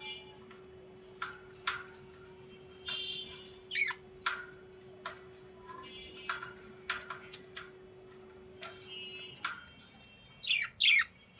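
Small birds calling: short chirps, sharp clicks and quick whistles that fall steeply in pitch, with two loud falling calls close together near the end. A steady low hum stops about nine seconds in.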